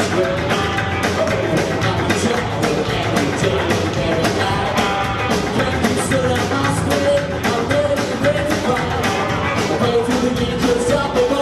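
Live rock-and-roll band playing with a steady drum beat and a wavering melody line over it.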